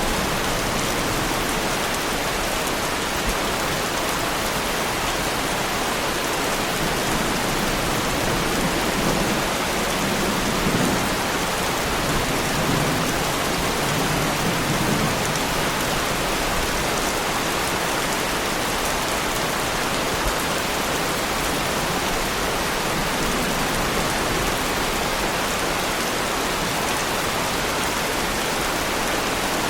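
Heavy rain falling steadily, with a low rumble of distant thunder swelling in the middle.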